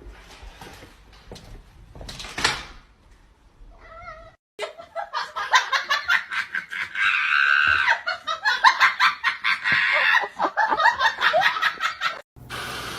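A pet animal's calls across short clips: a brief pitched cry about four seconds in, then a loud, dense run of calls mixed with clicks.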